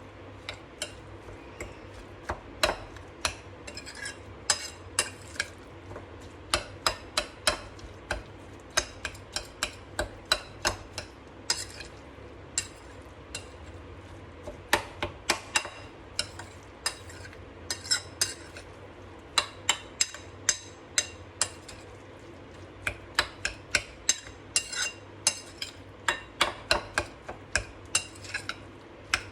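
A spoon stirring a batter in a bowl, knocking against the bowl in sharp clinks, irregularly about once or twice a second.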